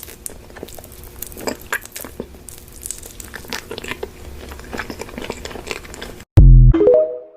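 Close-miked eating: crunchy bites and chewing with some crinkling. About six seconds in, it cuts off abruptly and a very loud, short sound effect follows: a deep tone with higher notes stepping upward for about a second.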